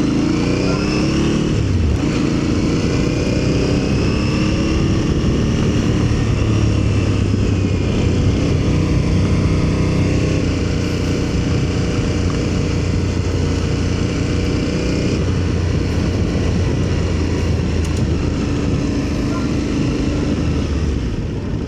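Aprilia Tuareg 660's parallel-twin engine pulling up through a gear, its pitch rising for the first couple of seconds, then running at a steady cruise, over a steady rush of wind and road noise.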